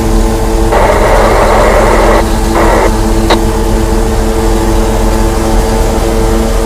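Car engine running steadily. Two short bursts of two-way radio static break in about a second in and near three seconds, followed by a click.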